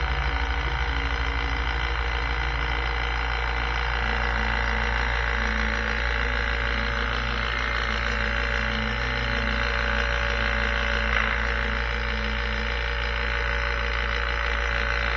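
Rebuilt Robinair 15600 two-stage vacuum pump running steadily with its ports capped, pulling a deep vacuum just short of 30 inches: a constant, even motor-and-pump hum.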